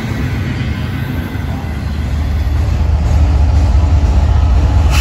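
Double-stack intermodal freight train rolling past with steady wheel and rail noise. From about halfway in, the diesel engines of mid-train Union Pacific locomotives come through, a deep steady rumble that grows louder.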